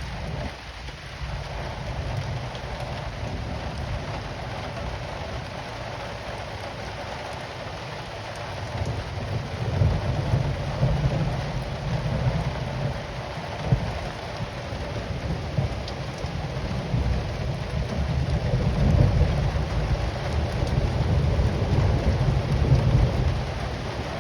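Steady rain falling, with low rolling thunder rumbling in two long swells, one about nine seconds in and a stronger one from about seventeen seconds.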